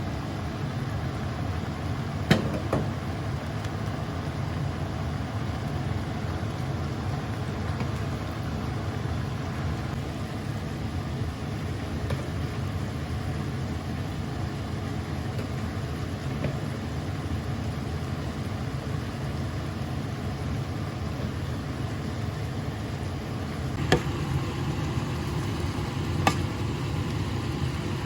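Steady low rumble of a running vehicle, with a few short sharp clicks about two seconds in and twice near the end.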